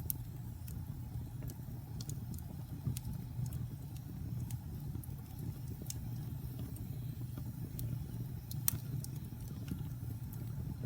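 Wood fire burning in a fireplace: a steady low rumble of the flames with scattered sharp crackles and pops, one louder pop about three-quarters of the way through.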